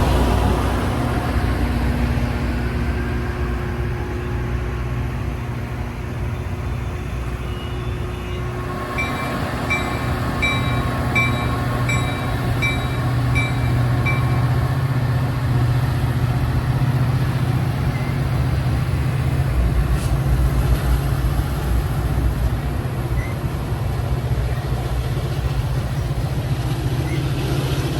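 Diesel commuter train pulling into a station, its locomotive engine running with a steady low rumble under the rolling noise of the train. About a third of the way in, a bell rings about twice a second for several seconds.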